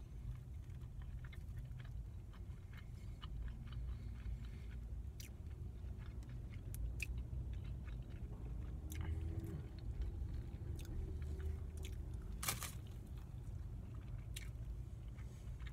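A person biting into and chewing a barbecue-sauced rib sandwich, with many small mouth clicks and crunches and one sharp, louder click about three-quarters of the way through, over a low steady hum.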